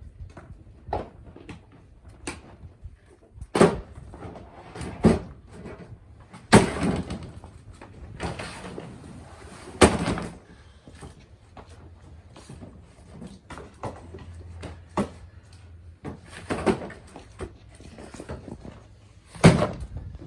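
Irregular knocks, bumps and thuds of boxes and goods being handled and set down, with a few louder bangs spread through.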